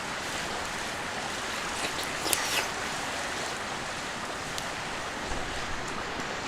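A clear mountain river flowing steadily, a continuous rushing hiss. A few faint short ticks and a brief higher sound come about two seconds in.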